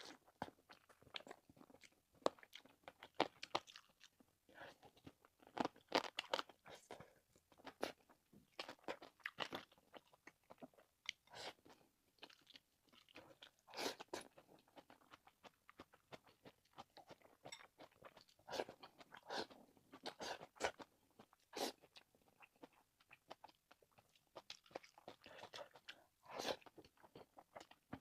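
A person chewing and biting braised meat close to the microphone: an irregular run of short, wet clicks from the mouth, with a few louder bites scattered through.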